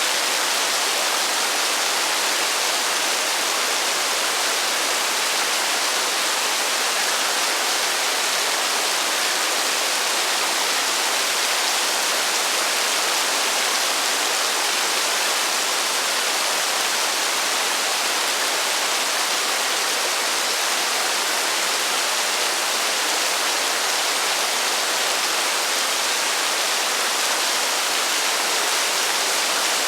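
Heavy rain falling steadily: a dense, even hiss with no thunder and no separate drops or gusts standing out.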